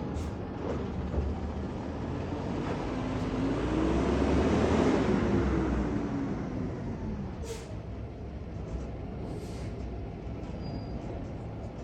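A large vehicle, a garbage truck or school bus, drives past: its engine grows louder to a peak about five seconds in, with the engine note rising and then falling, then fades away.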